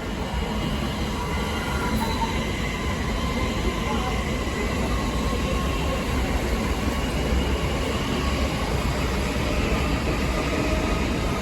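Passenger train running past on the track, a steady rumble of wheels on rail with faint high wheel squeal, growing a little louder in the first seconds.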